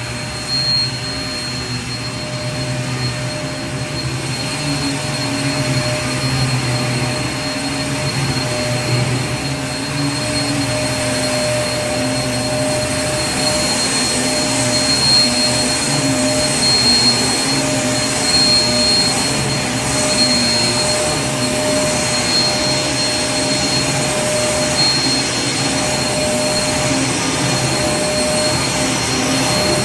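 Vacuum cleaner running steadily: a continuous whine with a steady pitch over the rushing air of its motor.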